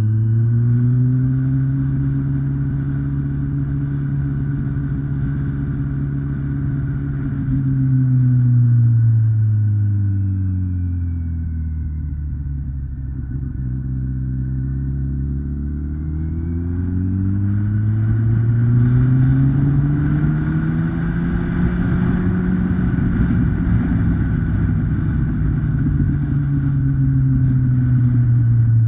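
Kawasaki ZX-10R's 998cc inline-four engine running while ridden. Its pitch holds steady, sinks as the bike rolls off about ten seconds in, and climbs again as it accelerates, over a steady rush of wind and road noise.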